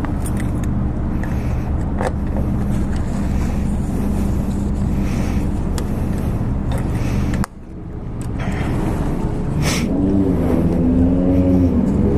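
Motorcycle engine running with a steady low drone. About 7.5 s in the sound cuts off abruptly and comes back quieter, then builds, with the engine pitch moving up and down near the end.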